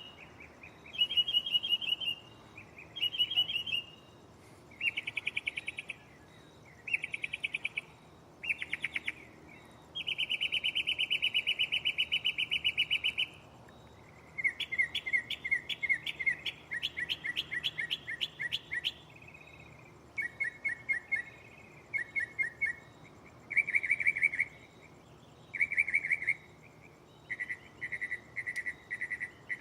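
Northern mockingbird singing, running through its repertoire of mimicked phrases: a series of different phrases of rapid repeated chirps and trills, with short pauses between them. About a third of the way in it holds one long, fast trill.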